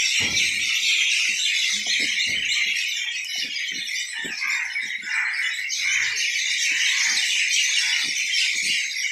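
A dense chorus of small birds chirping, busy and continuous, with scattered soft knocks underneath.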